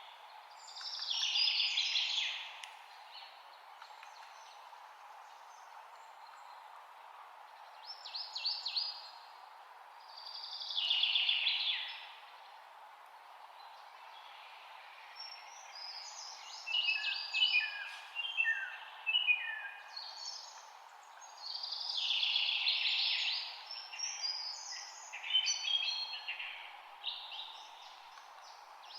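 Songbirds singing, in phrases a second or two long separated by pauses, over a steady low background hiss. The songs grow busier in the second half, with several phrases overlapping.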